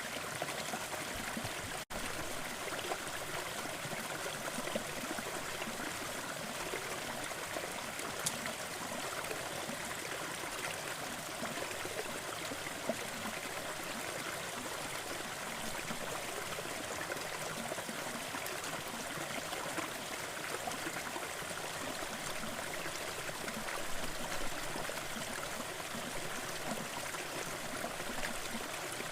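Gentle forest waterfall: an even, steady rush and trickle of falling water, which drops out for an instant about two seconds in.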